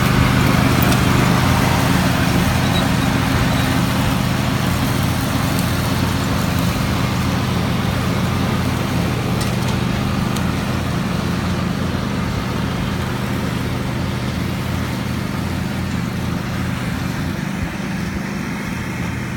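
John Deere lawn tractor engine running at a steady speed, slowly getting quieter, with a slight change in pitch near the end.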